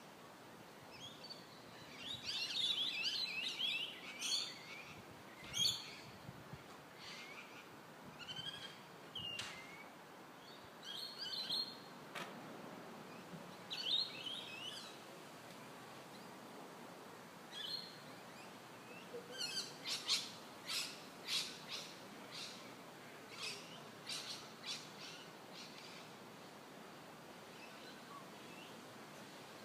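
Birds chirping and calling in irregular bursts: fluttering, twittering phrases in the first half, then a string of short, sharp chirps a little apart.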